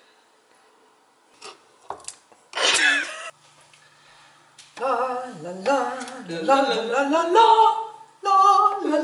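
A voice singing wordlessly from about five seconds in, in long gliding notes. Before it come a few light clicks and a short high vocal sound near three seconds.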